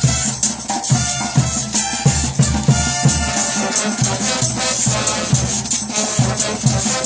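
Cumbia band music with a steady dance beat, a repeating bass line and a bright shaker rhythm on top.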